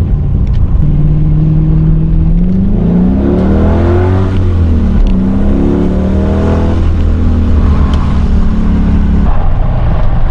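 Car engine accelerating from a pull-away, rising in pitch twice with a drop at each gear change, then running steadily at a lower pitch.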